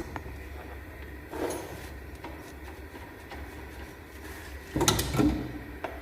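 Workshop handling noises over a steady low hum: a knock, a short scrape about a second and a half in, and a louder clatter of several knocks near the end.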